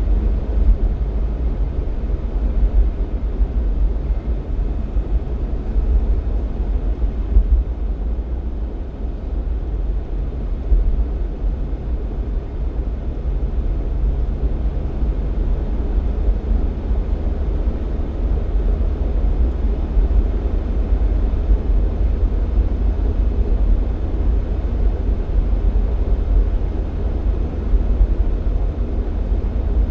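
Jeep Cherokee XJ driving along: a steady low rumble of engine and road noise, with a faint engine drone that drops away about halfway through.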